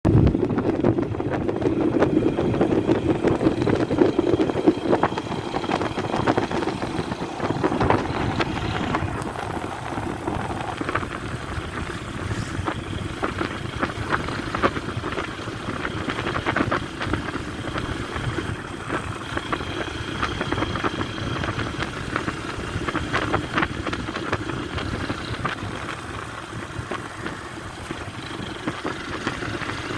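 A motor vehicle running, with wind on the microphone and frequent short knocks and rattles.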